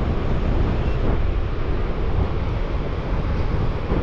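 Strong wind buffeting the microphone in a steady low rumble, with surf breaking behind it.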